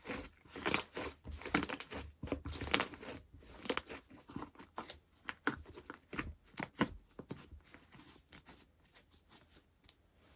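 Slime being worked by hand, giving a run of sticky crackles, pops and tearing sounds that thin out and quieten over the last few seconds.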